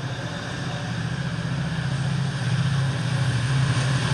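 TransPennine Express Nova 3 train passing through on the rails, the coaches rolling by over a steady low drone from the class 68 diesel locomotive at the rear. The drone grows louder as the locomotive nears.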